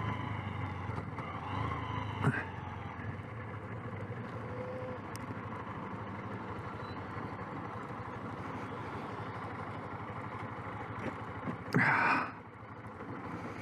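Small motorbike engine running steadily while riding along, with road and rushing noise. A sharp knock comes about two seconds in, and a brief louder rush near the end.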